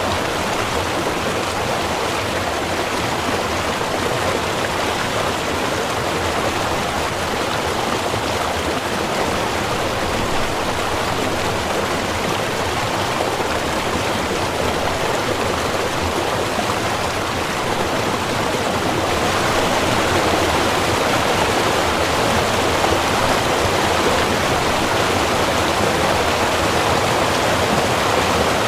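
Small river running: a steady rush of flowing water that gets a little louder about two-thirds of the way through.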